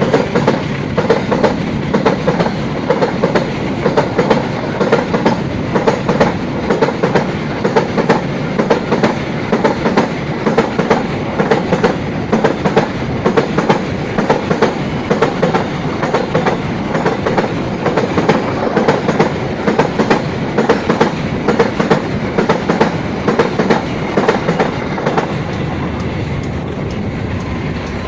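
Train wheels clattering over rail joints in a fast, even clickety-clack of about two to three clacks a second. The clacking fades into a steadier rumble about 25 seconds in.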